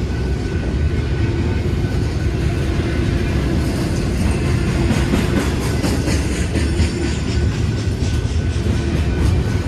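Intermodal freight train rolling past, a steady heavy rumble with scattered clicks of wheels over the rail joints.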